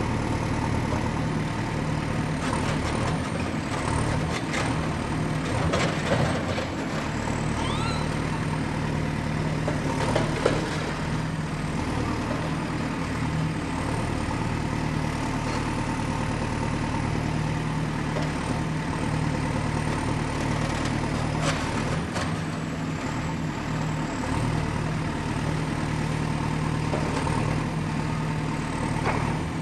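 Excavator's diesel engine running steadily while the machine works, with scattered metallic clanks and knocks, the loudest about six and ten seconds in, and a brief squeak around eight seconds.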